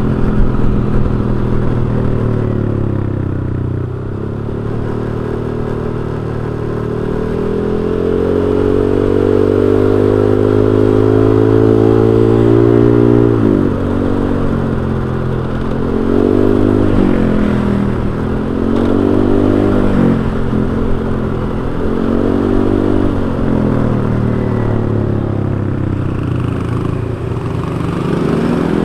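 Honda Vario 125 scooter's single-cylinder four-stroke engine running through an aftermarket racing silencer. The exhaust note climbs slowly for several seconds, drops, then rises and falls in a series of short throttle surges.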